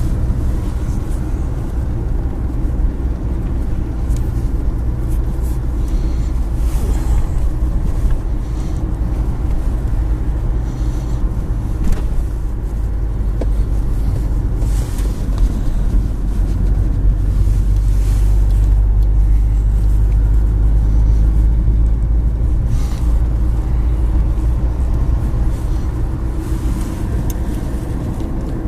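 Steady low rumble of a car in motion heard from inside the cabin: engine and road noise, growing a little louder for a few seconds past the middle.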